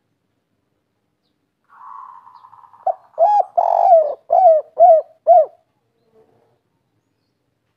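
Spotted dove (derkuku) singing one cooing phrase. About two seconds in, a soft rolling note leads into a run of about five loud, short coos, roughly half a second apart.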